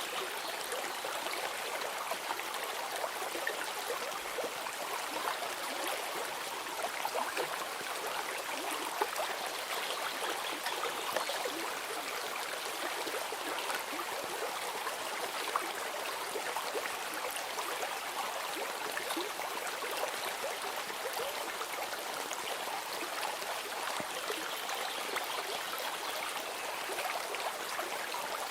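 Steady running water of a stream, a continuous rushing with small gurgles and splashes.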